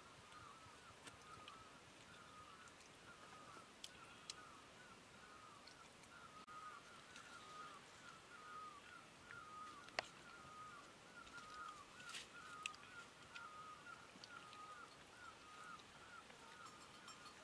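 Faint rural ambience: a bird repeating a short chirping note about twice a second, with a few small clicks, one sharper about ten seconds in.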